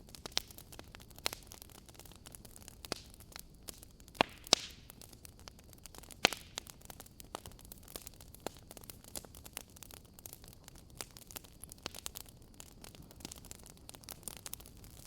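Wood fire in a fireplace crackling, with irregular sharp pops and snaps, the loudest a few seconds in, over a faint steady hiss and low hum.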